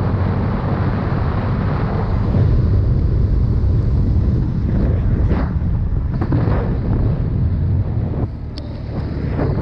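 CFMoto 250 CL-X single-cylinder engine running under way, with heavy wind buffeting the microphone. The level drops briefly about eight seconds in, then picks up again.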